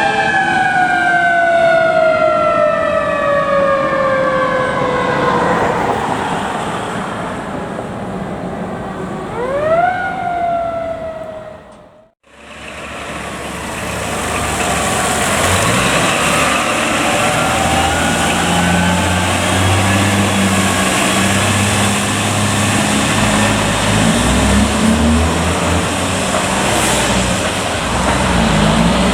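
Fire truck siren winding down in a long falling pitch, then a short rising-and-falling blip. After a sudden break, a fire truck's engine rumbles steadily, with a fainter siren gliding up and down behind it.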